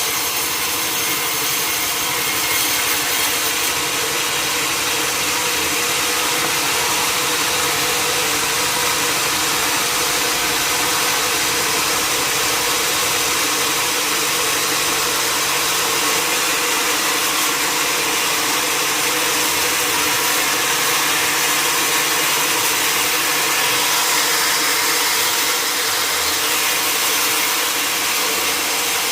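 Sawmill machinery running steadily: a continuous loud mechanical noise with a constant hum and no breaks or strokes.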